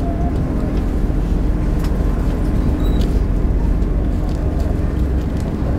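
Passenger train in motion, heard from inside the carriage: a steady low rumble with a constant hum, and a couple of faint ticks about two and three seconds in.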